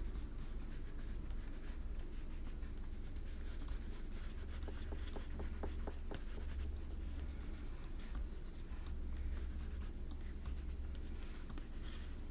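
Colouring strokes on paper: a soft, continuous scratching and rubbing as the flesh colour is worked in, over a steady low hum.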